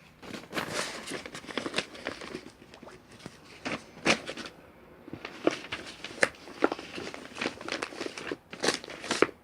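Crinkly packaging material rustling and crackling, in irregular bursts with sharp crackles scattered throughout.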